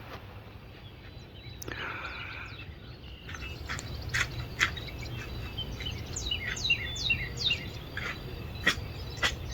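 Birds chirping outdoors in the morning: from about three seconds in, a busy run of short, quick downward-sweeping chirps and a few sharp clicks, over a low steady rumble.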